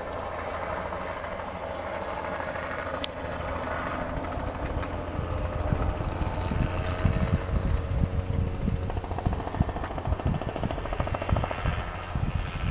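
Spray helicopter's rotor and engine beating overhead, growing louder about halfway through as it comes closer.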